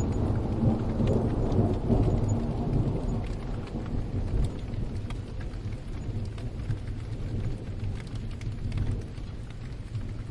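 A roll of thunder over steady rain: a low rumble that swells at the start and slowly dies away over several seconds, with raindrops pattering throughout.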